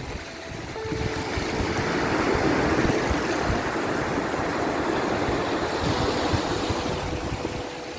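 Sea surf washing steadily against a shore, a continuous rush of waves that swells about a second or two in.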